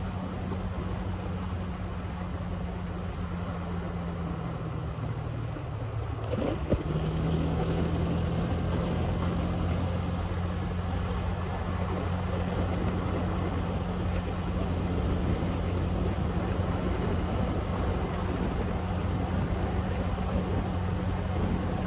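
Motorbike engine running steadily while riding, with road and wind noise. About six to seven seconds in the engine note dips, there is a sharp click, and it then runs on slightly louder.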